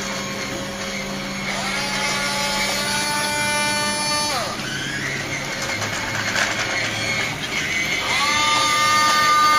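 Electric motors and gearing of a 1:14 Hobby Engine radio-controlled wheel loader whining as the model is worked. A whine rises about two seconds in, holds, and drops away sharply about halfway through; another rises near the end and holds.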